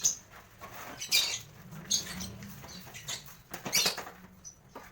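Lovebirds in their cage making a few short, sharp, high-pitched bursts of sound, about four spread over several seconds.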